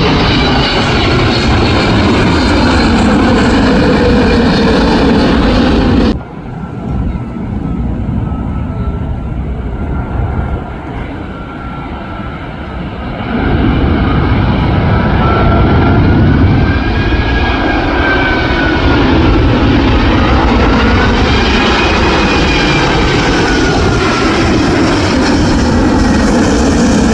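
Jet airliner passing low overhead on approach, with loud engine noise and a whining tone that glides up and down. The noise drops off suddenly about six seconds in and swells back to full loudness at about thirteen seconds.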